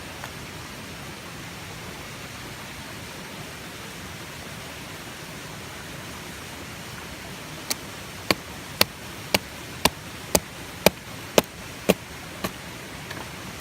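A steady rushing hiss, then, about eight seconds in, a run of about ten sharp knocks, roughly two a second, the last one weaker.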